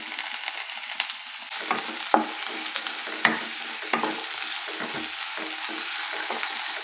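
Sliced capsicum and onions sizzling in hot oil in a nonstick kadhai, stirred with a wooden spatula. The spatula knocks against the pan a few times.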